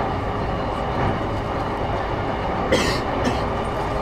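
Running noise heard inside a JR East E233-6000 series electric commuter train car on the move: a steady rumble of wheels on rail with a steady hum over it. Two short sharp clicks come about three seconds in.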